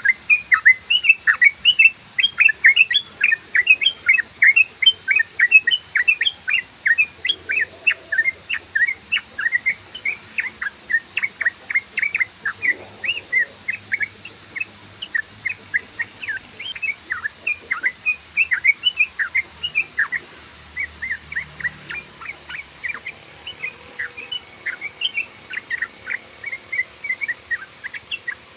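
Sooty-headed bulbul (trucukan) singing a long, rapid run of short chirping notes, several a second, without a break: the fast rolling 'ropel' song prized by bird keepers.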